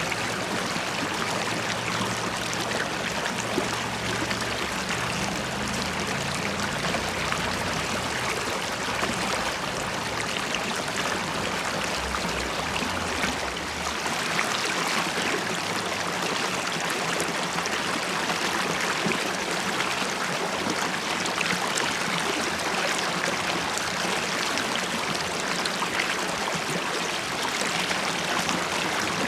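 River water flowing and bubbling, a steady, even sound with no breaks.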